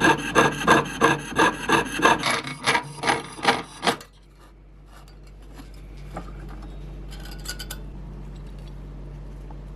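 A hand tool scraping back and forth on metal in quick, even strokes, about three a second. The strokes stop about four seconds in, leaving a low steady hum with a few faint clicks.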